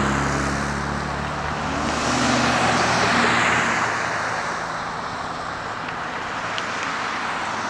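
Road traffic: a passing vehicle's tyre and engine noise swells and fades about two to three seconds in, over a steady hum of traffic.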